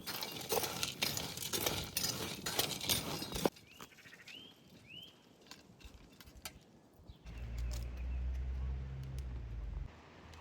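Clattering and knocking for the first few seconds, then a few short, high bleats from farm livestock. A low steady rumble follows near the end.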